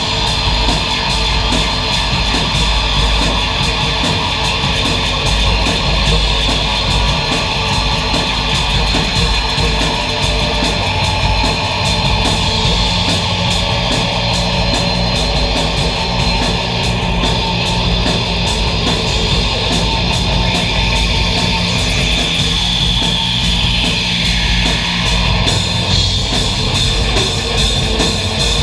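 Live noise music: a loud, dense, continuous wall of distorted sound with sustained tones running through it, one of them gliding downward about three-quarters of the way through.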